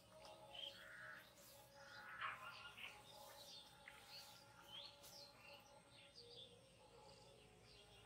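Faint birdsong: scattered short chirps and whistles from several birds, over a faint steady background.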